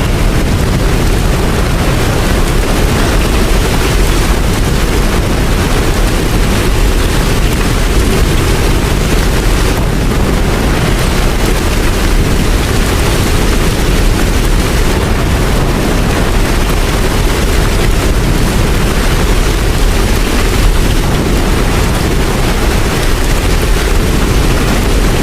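Steady rain, an even dense hiss with a deep rumble underneath.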